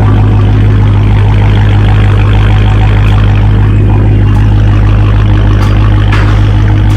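Dodge Hellcat's supercharged HEMI V8 running steadily at a constant pitch, loud through its mid-muffler-deleted exhaust.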